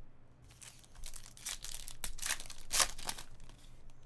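A trading-card pack's wrapper being torn open and crinkled: a quick run of sharp crackles.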